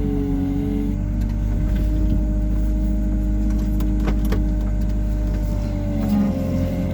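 Hyundai R140W-7 wheeled excavator running steadily under work, its engine and hydraulics giving a steady whine that shifts in pitch about a second in and again near the end. A few light clicks come about four seconds in.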